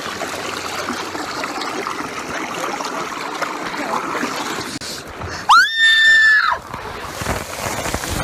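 Rushing, splashing water of a water-park slide ride, then about five and a half seconds in a rider screams once, a rising then held cry lasting about a second.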